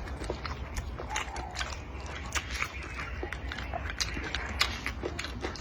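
Close-miked eating: irregular crunching clicks and wet smacks of someone chewing, several a second.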